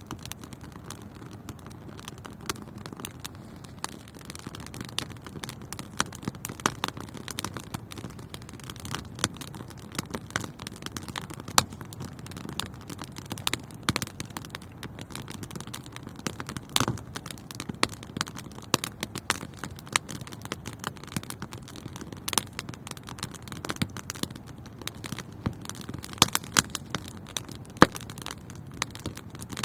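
Wood fire crackling and popping: dense, irregular sharp pops over a low, steady rushing of the flames, with a few louder pops scattered throughout.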